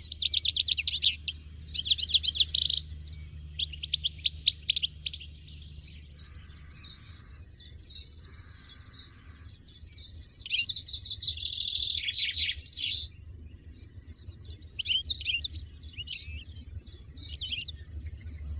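European goldfinch singing: bursts of fast, high-pitched twittering chirps and trills, with the longest and loudest phrase about ten seconds in, and short pauses between phrases.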